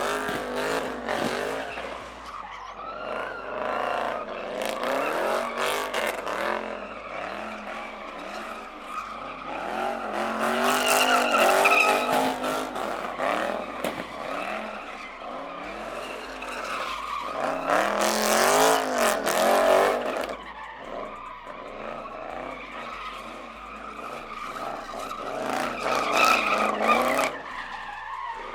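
A car revving hard while spinning its tires: the engine note swings up and down again and again over tire squeal and skidding hiss. The loudest stretches come about ten seconds in and again about eighteen seconds in.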